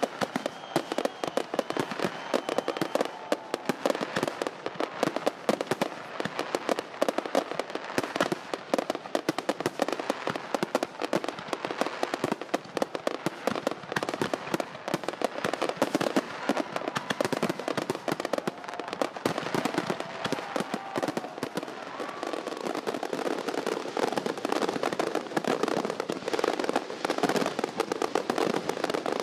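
Fireworks going off continuously: a dense, unbroken stream of sharp pops and crackles.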